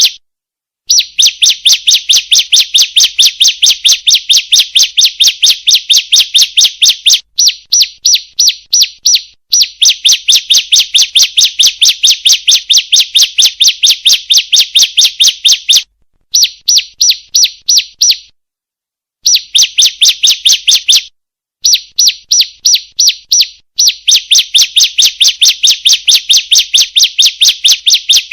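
Female bar-winged prinia (ciblek) calling: long runs of rapid, evenly spaced high chips, several a second, broken by short pauses. This is a lure call played to make other ciblek sing.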